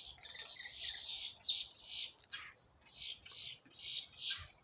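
Wild bird giving a quick run of sharp, high calls, about two or three a second.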